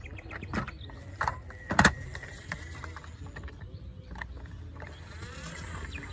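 Plastic toy vehicles being handled: a few sharp clicks and knocks, the loudest nearly two seconds in, over a steady low hum.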